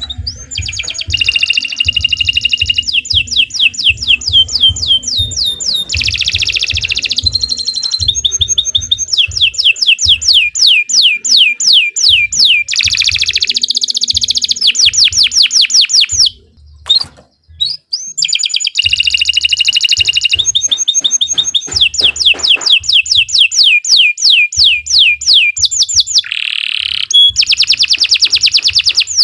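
Domestic canary singing a long, continuous song of fast trills, each made of rapidly repeated short notes, switching from one trill to the next every second or two, with a brief pause a little past halfway.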